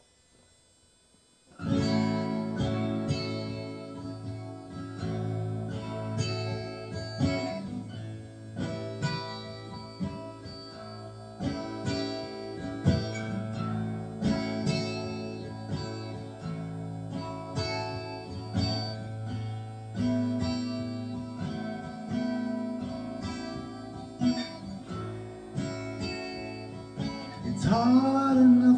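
Acoustic guitar in AADGBE open tuning playing picked notes over a held low bass, starting about a second and a half in. Near the end a louder note comes in that bends in pitch.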